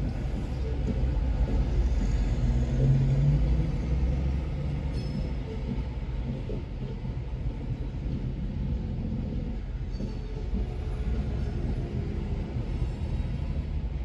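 Loaded coal hopper cars of a freight train rolling slowly past, a steady low rumble of wheels on the rails.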